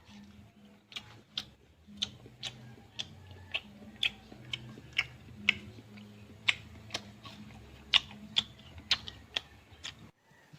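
A run of sharp taps or clicks, about two a second and fairly even, that stops abruptly near the end.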